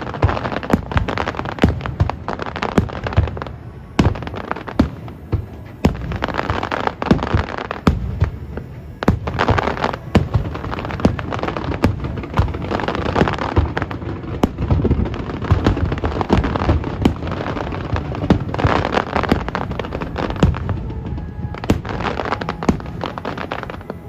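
Aerial fireworks bursting in rapid succession: many sharp bangs a second, over continuous crackling.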